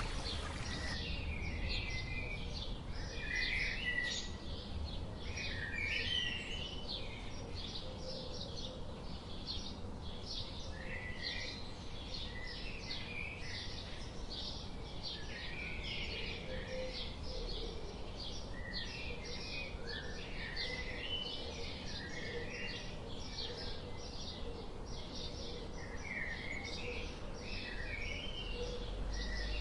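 Birds chirping and calling together: a dense run of short, rapid chirps with warbling, gliding phrases among them, over a steady low background rumble.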